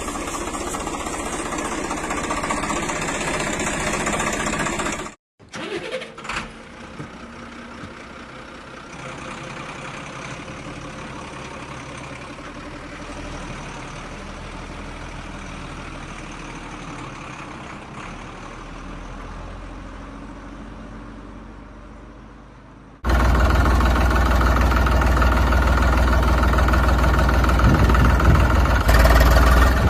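Heavy vehicle engines running, in cut-together clips: a loud stretch, a sudden break about five seconds in, a much quieter stretch, then a loud, deep, steady engine sound for the last seven seconds or so.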